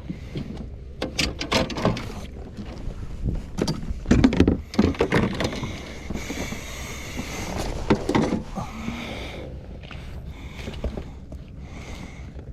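Irregular knocks and clatter of gear being handled aboard a fishing kayak, with a rushing noise lasting a couple of seconds around the middle.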